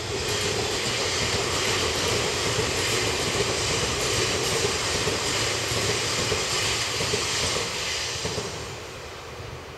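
Electric commuter train: a steady rushing hiss with a low hum underneath, fading away near the end.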